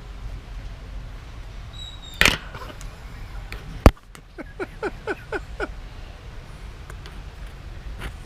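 A parrot at the GoPro: a short scratchy burst about two seconds in, then a single sharp, loud click of its beak striking the camera near four seconds in, followed by a quick run of about six short chirps, each falling in pitch.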